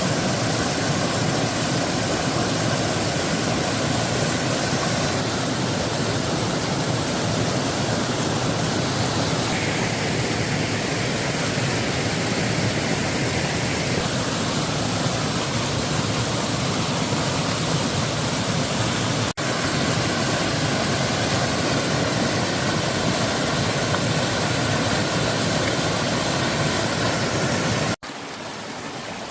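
Loud, steady rush of water, with a brief break about two-thirds of the way through. Near the end it cuts to a quieter flowing-water sound.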